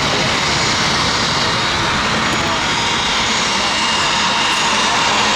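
Jet airliner engines running steadily: a continuous rush of noise with faint steady whining tones in it.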